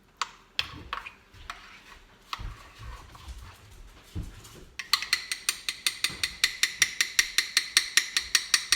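A spoon stirring stiff cookie dough in a dish. At first it gives scattered clicks and scrapes. About five seconds in it settles into fast, even clinks against the side, about six a second.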